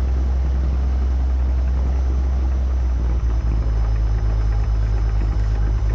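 Stinson light aircraft's piston engine running steadily at low power on the runway before the takeoff roll, a constant low hum whose note shifts slightly about halfway through.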